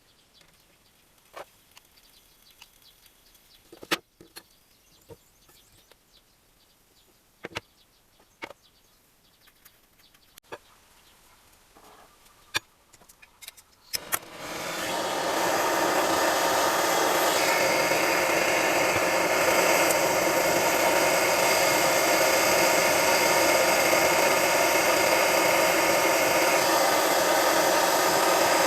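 Scattered light clicks and knocks of metal parts and hand tools being handled, then about halfway a loud motor-driven workshop tool starts and runs steadily.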